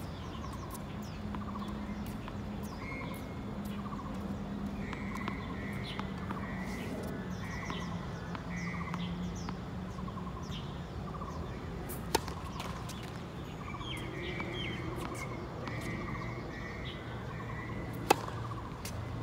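Birds chirping in short, repeated calls over a low steady hum, with two sharp knocks, one about two-thirds of the way through and one near the end.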